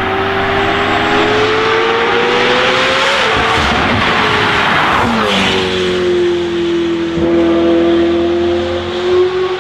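McLaren 720S twin-turbo V8 running through a Novitec sport exhaust. The engine note climbs slowly for about three seconds, a rush of noise follows, and then it settles into a steady note.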